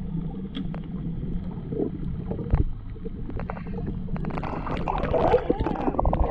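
Muffled underwater sound of water moving, with a steady low rumble and scattered short clicks. A wavering, muffled pitched sound comes in near the end.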